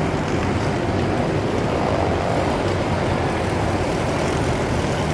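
Steady low rumble of city ambience with vehicle traffic noise, without a distinct single event.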